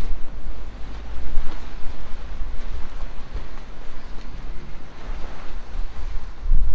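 Wind buffeting the microphone: a gusty low rumble that rises and falls unevenly, with a faint hiss above it.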